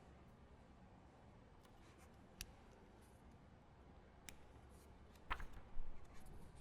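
Quiet library ambience: low room tone broken by a couple of isolated sharp clicks, then a brief cluster of small knocks and rustles about five seconds in.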